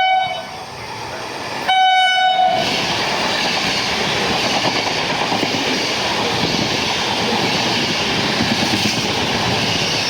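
A passing train sounds its horn: a single-pitched blast ends just after the start and a second blast of about a second follows about two seconds in. The train then runs through at speed with a steady rush of wheel and rail noise.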